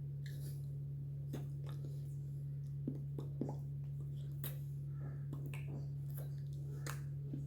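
A steady low hum throughout, with a scattering of faint short clicks and taps.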